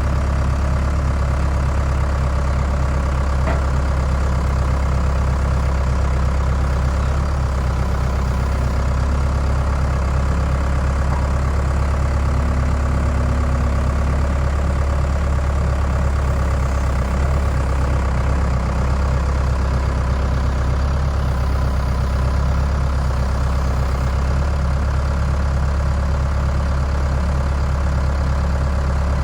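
Skid steer engine running steadily at an even speed, a loud low hum that does not change.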